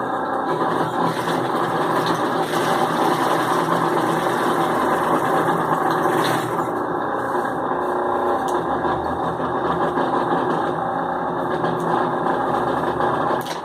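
Sewing machine running steadily under its motor mounted beneath the table, a test run after the motor has been taken out, reassembled and its cover refitted.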